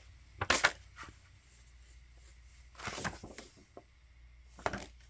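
Handling noise from a DVD case, disc and paper booklet being handled: a few brief rustles and clicks, about half a second in, around three seconds in and near the end.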